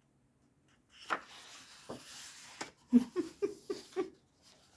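A page of a coloring book being turned, with the paper rustling and sliding, followed by a few short, low pitched sounds.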